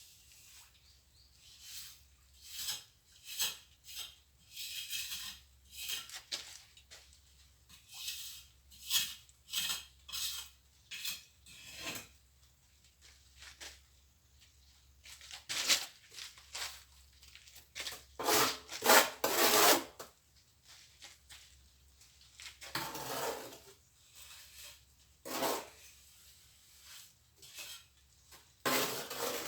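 Plastering trowel scraping and spreading mortar in a run of short, irregular strokes, with louder, longer scrapes about 18 to 20 seconds in and again near the end.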